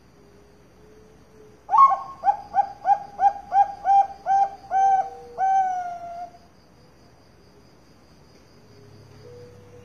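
Zebra dove (perkutut bangkok) singing: a quick run of about nine short coos, then one longer note that falls slightly at the end. Faint steady chirping of insects underneath.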